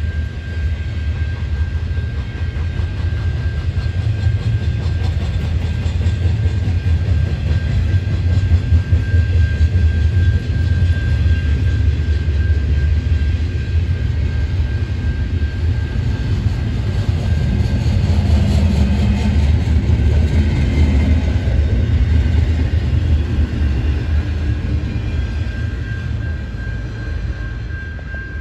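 Double-stack intermodal container train rolling past: a steady low rumble of the loaded well cars on the rails, with a steady high-pitched tone above it. The rumble eases a little near the end.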